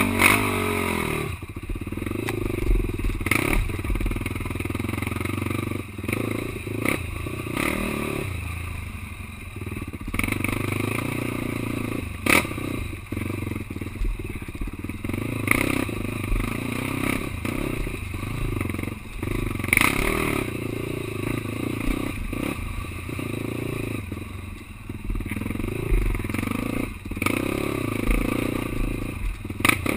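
Quad (ATV) engine running hard over rough enduro ground, its pitch rising and falling with the throttle, with clattering and sharp knocks from the machine hitting bumps.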